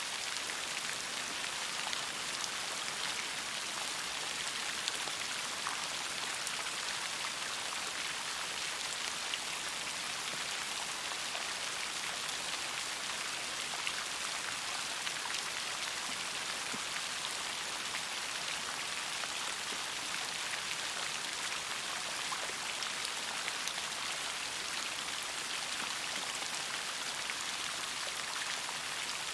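Steady rainfall, a continuous patter of raindrops with scattered individual drop ticks.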